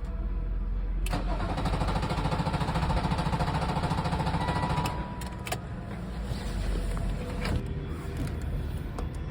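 Starter cranking a BMW M57 straight-six diesel, turning over with a fast, even beat for about four seconds before stopping.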